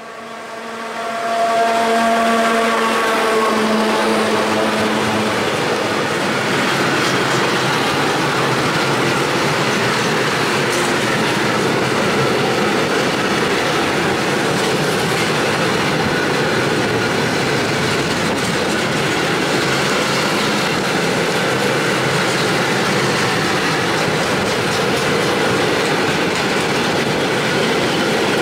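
An ET22 electric freight locomotive passes close by. Its steady tones die away within the first few seconds. Then a long train of pear-shaped cement/powder hopper wagons rolls past with continuous, even wheel-on-rail noise.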